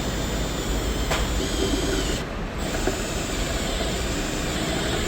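Electric drill running slowly while boring out a broken steel bolt so a reverse tap can grip it, kept slow so the bolt does not heat up and harden. It eases off briefly about two seconds in.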